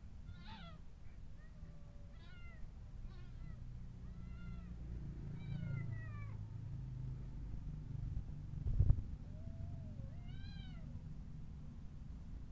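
Domestic cat meowing repeatedly, about eight short, arching calls with pauses between them. A single loud thump comes about two-thirds of the way through.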